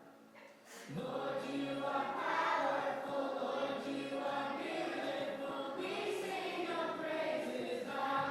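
A group of voices singing a song together, starting about a second in after a brief pause.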